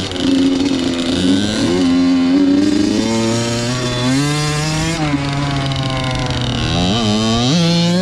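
Two-stroke motocross bike engine revving as the bike is ridden. The pitch climbs, eases off and climbs again, with a few quick throttle blips near the end.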